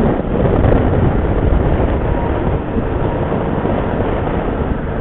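Motorcycle riding along at a steady pace: the engine's drone is mixed with wind and road noise on the bike's microphone.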